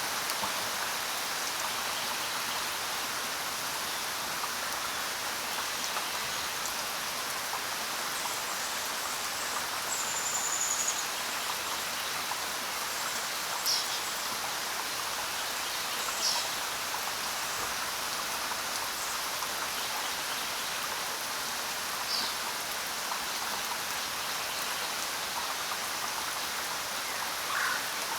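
Steady rain falling on the ground, a dense even patter of drops, with a few brief high chirps scattered through it.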